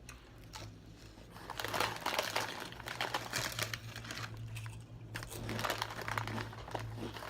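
Food wrapper crinkling and rustling in repeated crackly handfuls, over a low steady hum.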